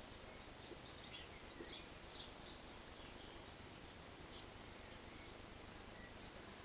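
Faint bird chirps and twitters over a steady background hiss. The calls are short and scattered, most of them in the first half.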